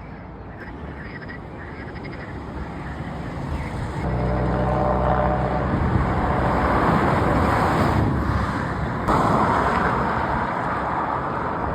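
A motor vehicle's engine growing louder as it approaches, loudest in the second half, with a sudden jump in level a little after nine seconds.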